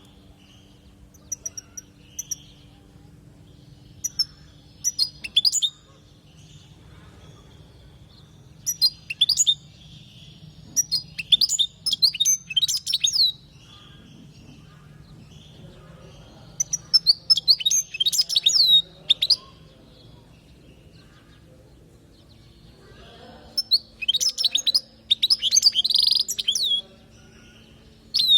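European goldfinch singing: bursts of fast, liquid twittering phrases a second or two long, separated by short pauses, over a faint steady low hum.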